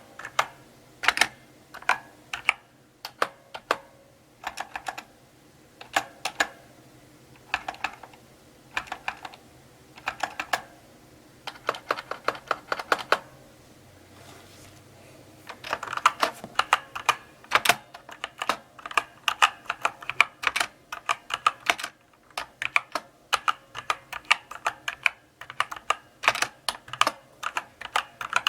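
Slow typing on a mechanical keyboard: keystroke clicks come in short clusters with pauses between them, then after a brief lull about halfway through they come faster and closer together.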